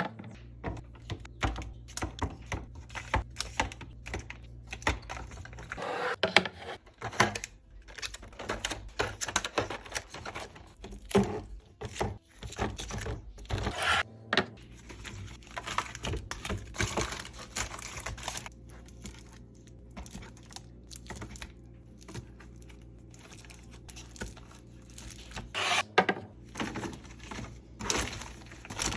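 Rapid clicks and knocks with crinkling packaging: groceries being handled and set down while a fridge is restocked, over a steady low hum.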